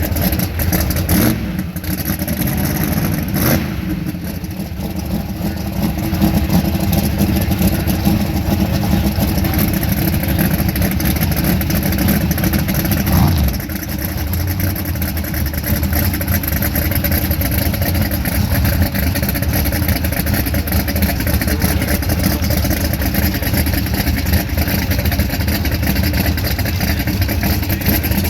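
Twin-turbocharged Mustang's engine running steadily and loudly, with a few brief surges in revs in the first few seconds and again about halfway through.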